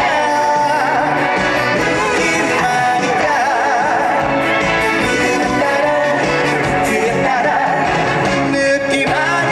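A trot song performed live: a singer's voice with vibrato over full band accompaniment, loud and steady.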